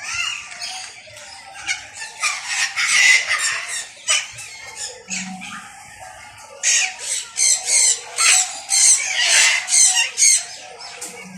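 Zoo birds squawking loudly: harsh calls come repeatedly throughout, with a dense run of about two calls a second in the second half.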